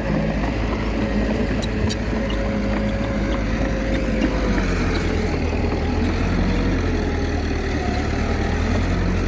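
Komatsu D21A bulldozer's diesel engine running steadily, its pitch wandering slightly, with a few faint metallic clicks about two seconds in.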